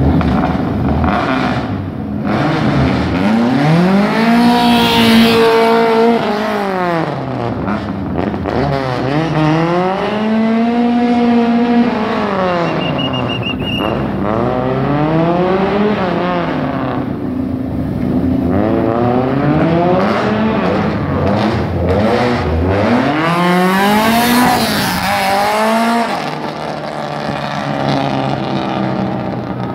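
Rally car engine revved again and again while standing still, the pitch climbing, holding briefly and falling back every three to four seconds.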